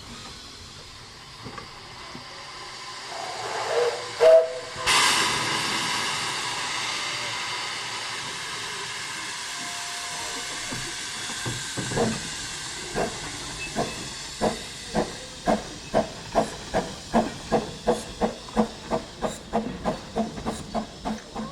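Double Fairlie narrow-gauge steam locomotive: a short whistle about four seconds in, then a loud hiss of steam that slowly dies away. About twelve seconds in the exhaust beats start as it pulls away, quickening to two or three a second.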